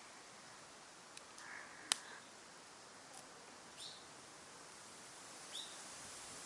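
Wood campfire crackling, with one sharp pop about two seconds in and a few fainter ticks, over a steady hiss. A bird gives two short, falling high calls, one near the middle and one near the end.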